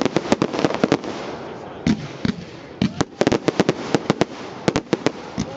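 Fireworks display going off: rapid runs of sharp bangs and crackles, broken by short lulls.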